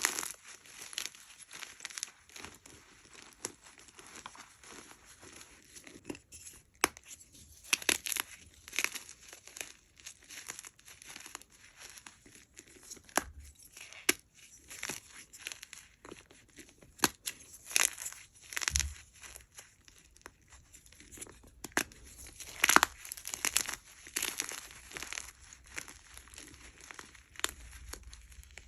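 Blocks of hard gym chalk being crushed and crumbled by hand, giving irregular crisp crunches and crackles, some louder and sharper than others.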